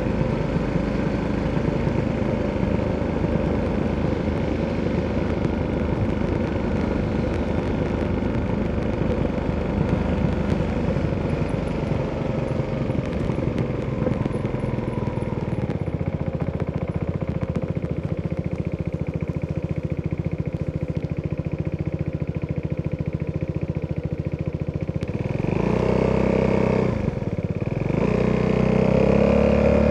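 Italjet Dragster 200's single-cylinder four-stroke engine running through an Akrapovic exhaust, holding a fairly steady note for most of the time. About 25 seconds in the throttle opens and the pitch rises, drops briefly, then climbs again, louder, near the end.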